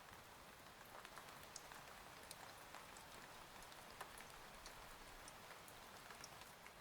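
Faint, steady rain, with many individual drops ticking sharply through the even hiss.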